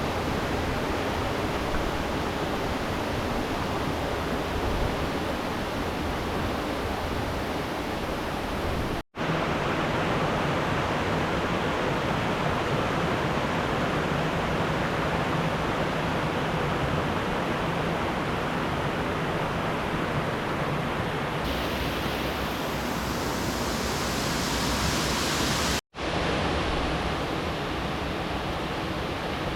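Steady rush of flowing river water, an even wash of noise that drops out for an instant twice.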